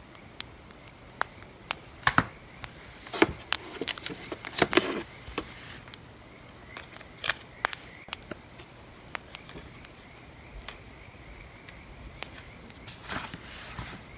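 Wood fire crackling, with sharp irregular pops and snaps. There are a few longer, scratchier rustling patches at about two to five seconds in and again near the end.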